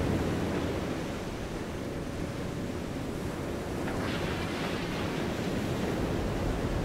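Ocean-and-waves ambience in an animation's soundtrack: a steady rushing water noise, with a brief brighter hiss about four seconds in, around the moment the ROV drops into the water.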